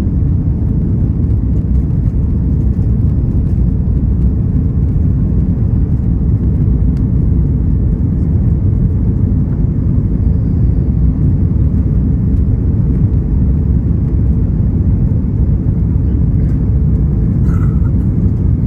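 Steady low rumble of an Airbus A340-600 heard inside the passenger cabin, the engines and airframe running before takeoff. A brief faint higher sound near the end.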